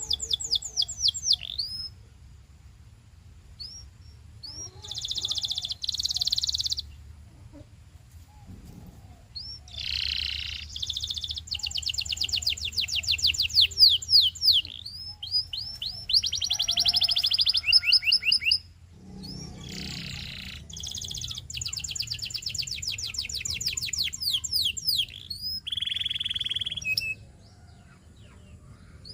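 Domestic canary singing in phrases of fast trills and rolls, each a quick run of repeated notes, with short pauses between phrases. A faint low hum runs underneath.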